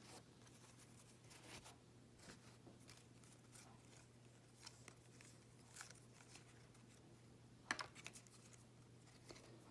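Near silence with a faint steady low hum, broken by a few soft clicks and rustles of trading cards being handled and sorted.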